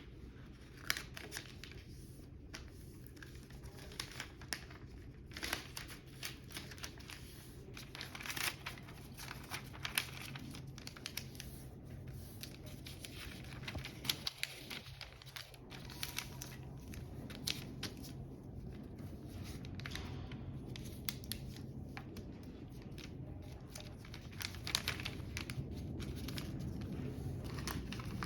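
A sheet of paper being handled and folded, crinkling and rustling in many short, irregular bursts, as when a paper airplane is being folded and creased.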